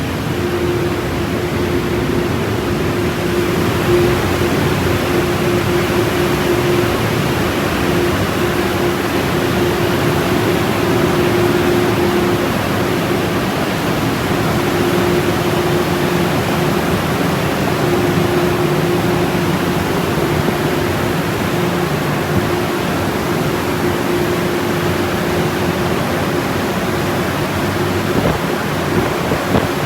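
Ryko automatic car wash running: a loud, steady rushing noise with a steady hum underneath that drops out briefly now and then.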